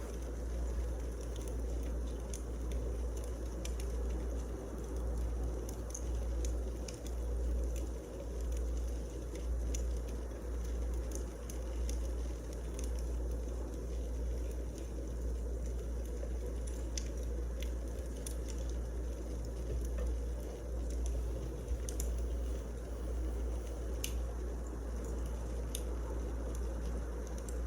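Firewood burning in a fireplace: a steady low rumble with scattered sharp crackles and pops throughout.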